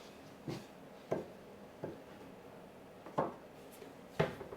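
Five light, sharp knocks and taps on wood, spaced about a second apart, from handling the frame pieces during a glue-up.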